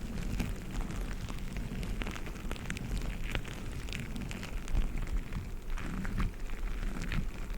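Squishy dumpling toys being squeezed and handled close to the microphone: a dense, irregular crackle of small clicks over a low handling rumble.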